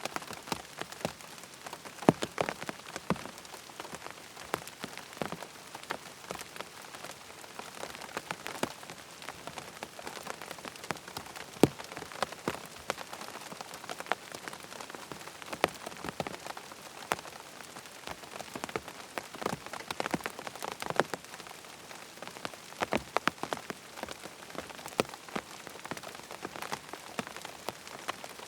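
Rain falling steadily on a tent, with a constant hiss of rain and many separate heavier drops tapping on the fabric.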